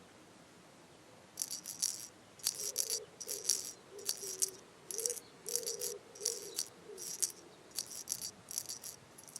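A shaker rattling in short, regular shakes, about one every half second, over a soft wavering low tone: a rhythmic sound effect from a children's television soundtrack.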